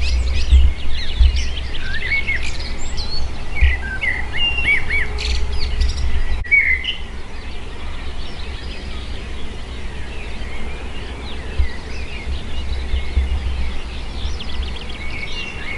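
Several songbirds singing at dawn, a mix of trills and quick chirps, busiest in the first six seconds and thinner after, over a steady low rumble.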